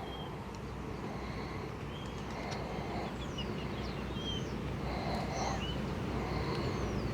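Small birds chirping in short, scattered calls, several a second, over a steady low rumble of background noise.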